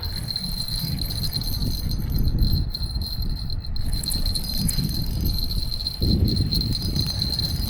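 Wind buffeting the microphone in a continuous low rumble, over a steady high-pitched whine.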